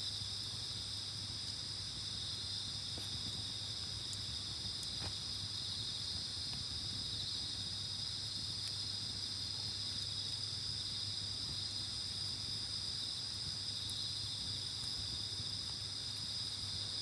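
Steady, continuous chirring of crickets in a night insect chorus, with a few faint snaps from the campfire.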